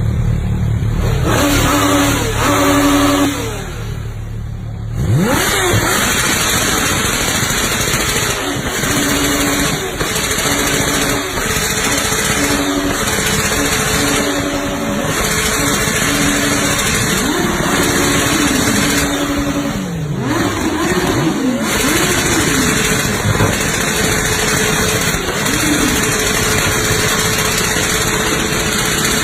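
Kawasaki Ninja H2's supercharged inline-four engine revved over and over, its pitch rising and falling, over a loud rasping exhaust. There is a brief quieter dip a few seconds in.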